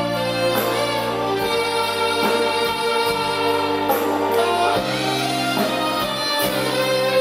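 Live band music from a slow winter-song medley: sustained chords over a bass line that steps to a new note every second or so, a passage with no lead vocal line.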